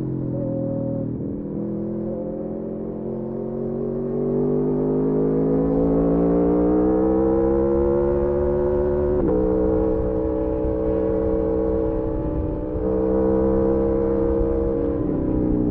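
Aprilia Tuono V4 motorcycle's V4 engine under load, heard from on the bike, rising gradually in pitch as it accelerates. There is a gear change about nine seconds in, and brief throttle changes near thirteen and fifteen seconds.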